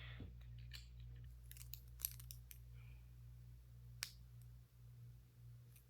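Faint clicks and taps of plastic Lego pieces being handled and pressed together. The sharpest clicks come about two seconds and four seconds in, over a low steady hum.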